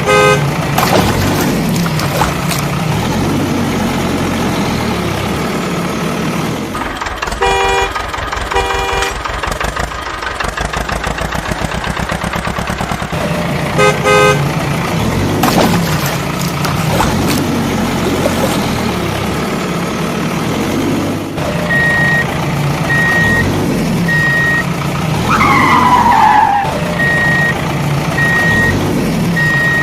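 Heavy vehicle engines running steadily, with short horn honks: two close together about a quarter of the way in and one about halfway. In the last third an evenly repeating beep sounds, and a falling squeal comes near the end.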